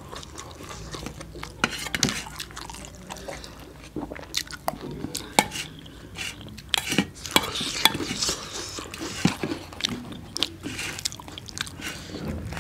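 Close-up chewing, biting and mouth sounds of people eating, with many short sharp clicks and smacks, some of them a metal spoon on a steel bowl.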